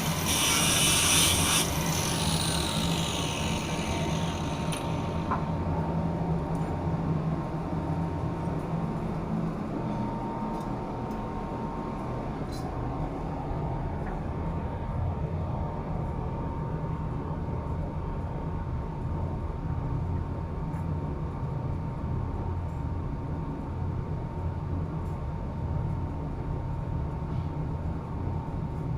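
A power tool's harsh rasping cuts off about a second and a half in and winds down with a falling whine, leaving a steady low machinery drone with a faint steady tone above it.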